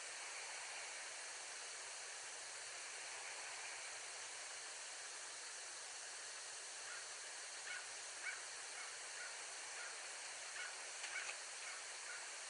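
Steady microphone hiss, with a series of short, high chirping calls from a bald eagle starting about seven seconds in.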